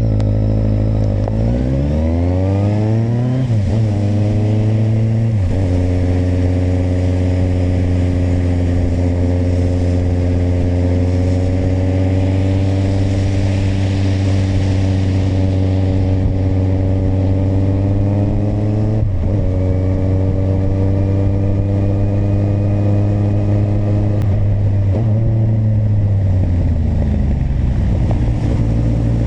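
Kawasaki motorcycle engine pulling away, its revs climbing and dropping at upshifts about three and a half and five and a half seconds in, then cruising at steady revs. There is another shift near nineteen seconds, and the revs fall around twenty-five seconds before holding steady again.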